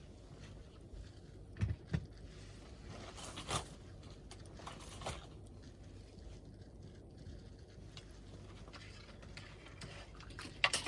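Wood fire crackling: a low steady hiss with scattered sharp pops, a handful over several seconds, the loudest near the end.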